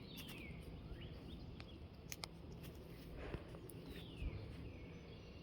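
Faint outdoor background with short descending bird chirps, one near the start and one about four seconds in, and a few soft clicks.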